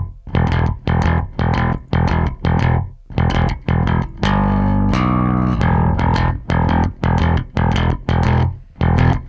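Bass guitar playing a staccato, palm-muted riff of short chugging notes, about three a second, with one longer held note near the middle. The track runs through FET compression and saturation.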